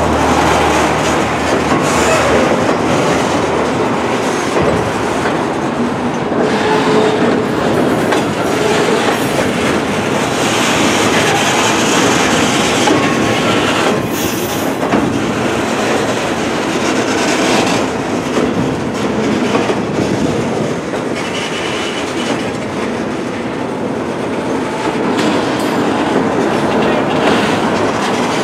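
Loaded freight flatcars rolling past close by: a steady, loud rumble and clatter of steel wheels on the rails.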